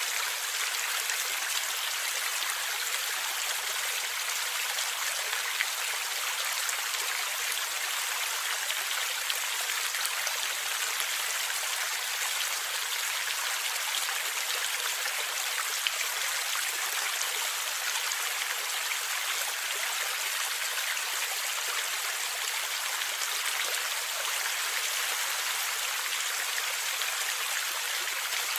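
Stream of water flowing and gurgling: a steady, even rush with little low rumble and a few brief louder splashes.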